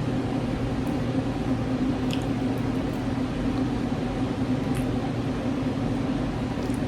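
Steady low hum of background noise, like a fan or appliance, with a few faint clicks that may be quiet eating sounds.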